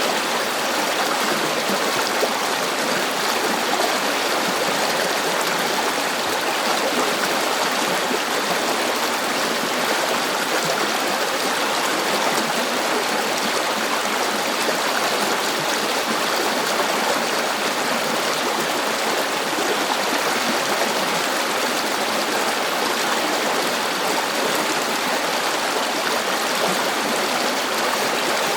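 River water rushing and burbling steadily over rocks, a continuous even flow with no breaks.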